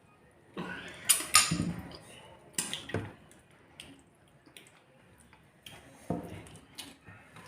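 Wet squelching and scraping of food being mixed and scooped off a plate by hand while eating, with a few sharp clinks, in several short irregular bursts.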